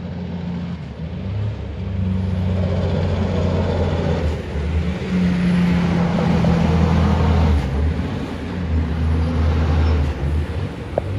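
Heavy haulage truck's diesel engine running, a loud low drone that shifts slightly in pitch and gets louder about two seconds in.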